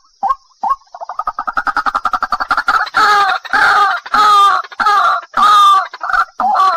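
White-breasted waterhen calling: a few short spaced notes, then about a second in a fast stuttering run of notes that builds into loud, harsh calls repeated about every half second.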